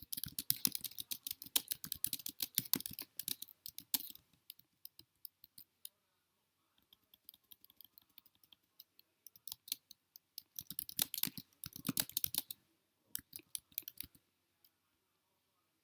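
Rapid runs of sharp clicks in two bursts: the first lasts about four seconds, and the second runs from about seven seconds in to about fourteen, with scattered clicks in between.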